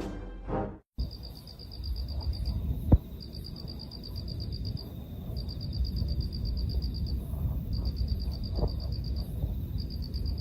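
Insects chirping in repeated trills about a second and a half long with short gaps, over low rumbling background noise, with one sharp click about 3 seconds in. Music ends abruptly within the first second.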